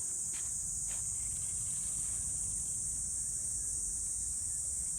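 Steady high-pitched drone of an insect chorus, unbroken throughout, with two faint clicks in the first second.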